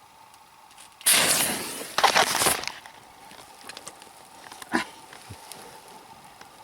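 A large firecracker (a petard made to simulate a gunshot) going off: a sudden loud burst about a second in that dies away over about a second, a second cluster of loud cracks a second later, and one sharp crack near the end.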